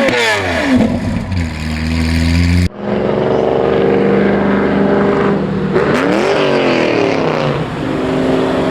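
Sports car engine revving and running: a rev falls away, the engine holds steady, the sound breaks off sharply about three seconds in, and another quick rev blip rises and falls around six seconds in.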